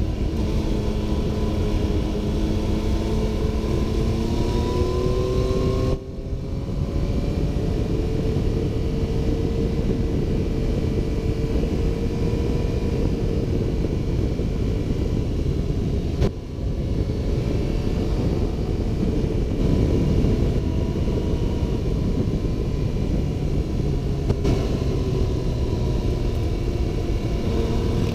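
Motorcycle riding at speed: engine running under a heavy low wind rumble, its note rising over the first several seconds, with two brief sudden dips in the sound.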